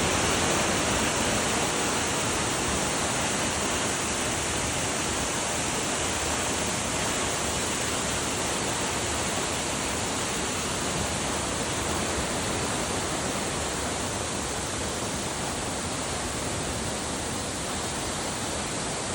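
Waterfall with a steady, unbroken rush of falling water, easing off slightly toward the end.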